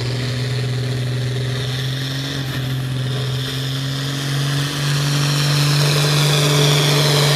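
Modified farm tractor engine running hard under load as it pulls the sled down the track, a steady heavy drone that grows louder about five seconds in.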